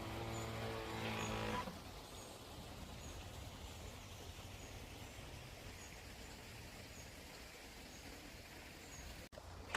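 Heng Long RC work boat's motor whining steadily, rising slightly, then cutting out about a second and a half in. After that, a low outdoor background with faint, evenly repeated high chirps.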